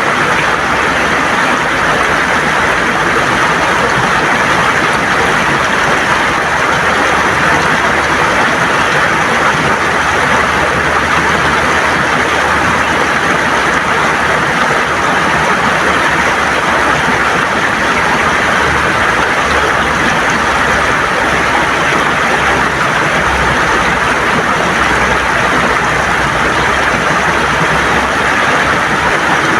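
River water gurgling and rushing over stones in a steady, unbroken flow.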